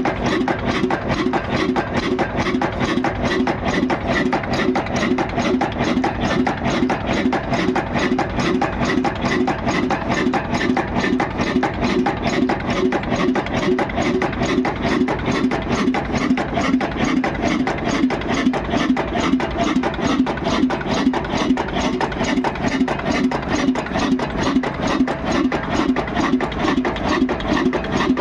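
Old 20 HP stationary diesel engine running steadily at an even, rapid rhythmic beat.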